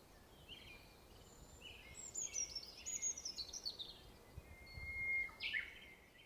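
Wild birds singing: a quick run of high chirps about two seconds in, stepping down in pitch, then a held whistle and a short call near the end, over a faint outdoor hiss.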